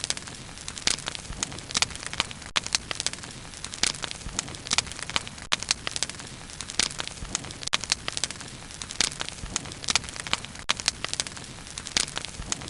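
Wood campfire burning, with dense irregular crackles and pops over a steady low hiss.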